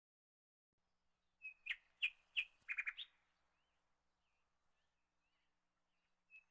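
A bird chirping: a few short, sharp chirps about one and a half to three seconds in, then faint twittering.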